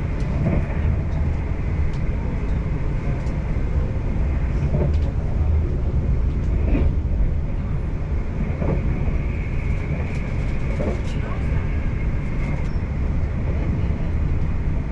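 Electric passenger train running along the line, heard from inside the carriage: a steady low rumble of wheels on rails with a faint, steady high whine.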